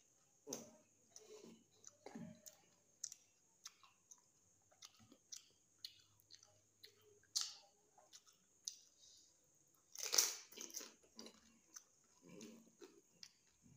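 Pani puri being eaten: crisp hollow puris crunching and being chewed, with wet mouth sounds and irregular clicks. The loudest crunch comes about ten seconds in.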